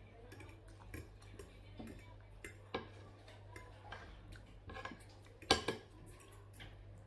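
Cutlery clinking and scraping against dishware while eating, as scattered light clicks, the loudest about five and a half seconds in, over a faint steady low hum.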